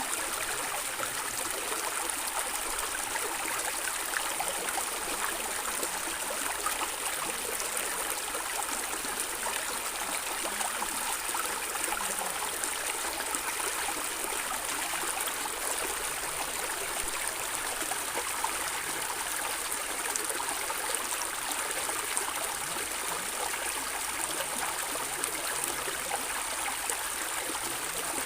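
Stream water babbling and gurgling steadily over rocks.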